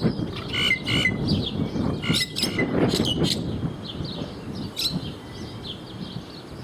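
Small birds chirping in short, quick calls, most densely in the first few seconds and thinning out after, over a low rumbling noise.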